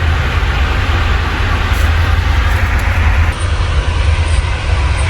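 Moving train running with a steady low rumble and even running noise.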